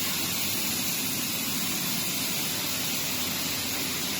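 YCD-38E ceiling dehumidifier running: a steady rush of air from its fan, even and unbroken.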